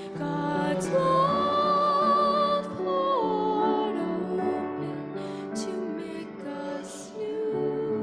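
A slow hymn sung by voices to instrumental accompaniment, with long held notes that step down in pitch about three seconds in.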